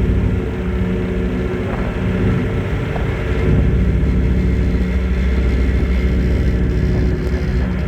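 Ferry's engines running with a loud, steady low rumble and a steady hum.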